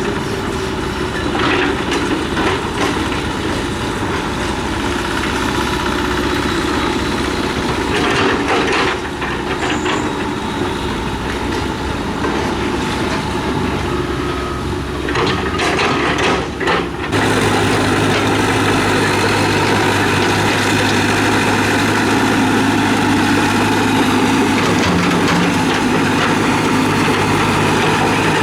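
Heavy diesel construction machinery running, with irregular metallic clanking and knocking over the engine. About two-thirds of the way through the sound switches abruptly to a steadier, smoother engine note with a low hum.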